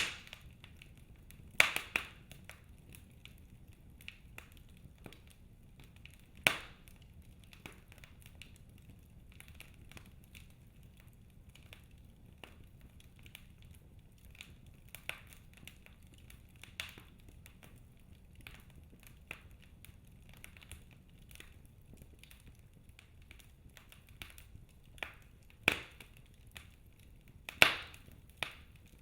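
Wood fire burning in a fireplace: logs crackling with irregular sharp pops over a low hiss, a few loud pops near the start and near the end and sparse faint crackles between.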